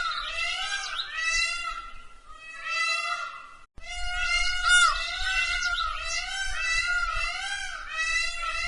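Bird calls: a run of short, arching, meow-like calls repeated about twice a second, broken by a brief gap a little before the middle.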